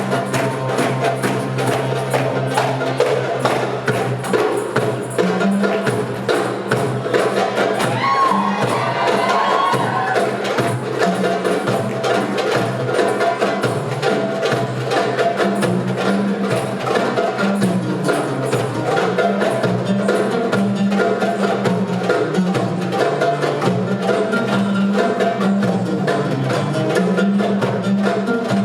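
An ensemble of hand drums, darbukas among them, playing a fast, dense rhythm of sharp strokes over a backing track of sustained bass notes that change in steps.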